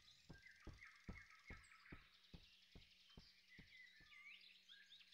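Faint forest ambience with birds chirping and a row of soft, evenly spaced taps, about two and a half a second, that fade away a little after the middle.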